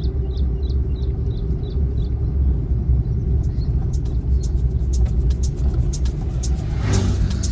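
A vehicle on the move: a steady low rumble of engine and road noise, with a run of sharp ticks starting about halfway through and a brief swell in the noise near the end.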